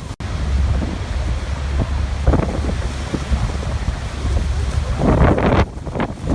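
Steady rushing of a waterfall mixed with wind buffeting the microphone in gusts. The sound drops out for an instant just after the start.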